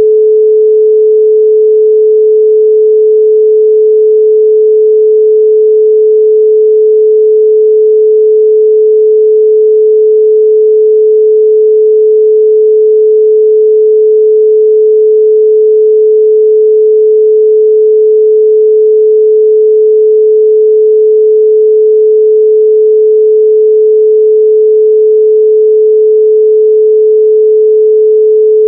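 Steady 432 Hz pure sine tone, one unchanging pitch with no overtones.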